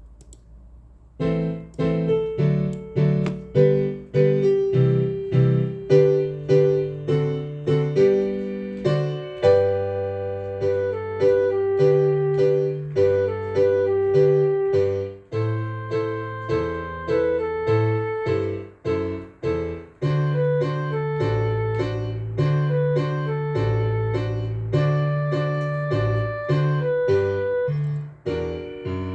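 Piano playing a bouncy foxtrot with a steady bass beat, starting about a second in.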